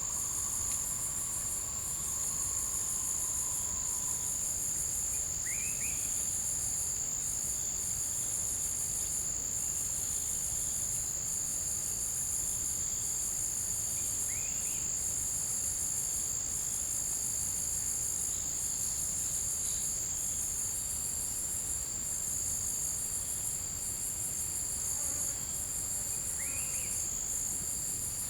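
Dense chorus of forest insects: one steady high-pitched buzz, with a higher trill that pulses in stretches of a second or two. Three short rising chirps come about eight seconds apart, and a faint held whistle sounds during the first few seconds.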